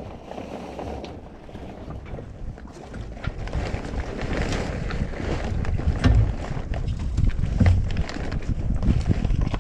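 Wind buffeting the microphone aboard a sailboat, with water washing against the hull and occasional knocks; it grows louder a few seconds in.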